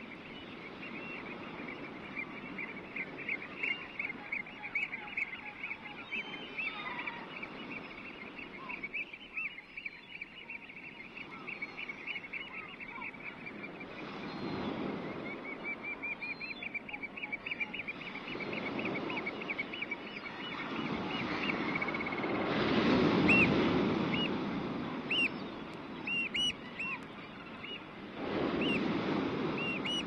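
Birds calling: runs of rapid, high repeated notes, breaking into separate single calls in the second half. Beneath them a rushing noise swells several times and is loudest a little past the middle.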